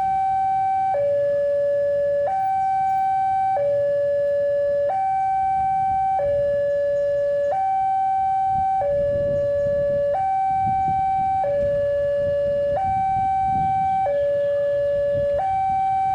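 Level crossing warning alarm sounding a steady two-tone hi-lo signal, the higher and lower tones alternating about every 1.3 s, warning that a train is approaching. A low rumble runs underneath, heavier midway.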